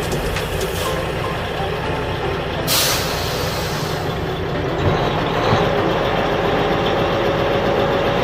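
Truck engine running steadily, with a short air-brake hiss about three seconds in.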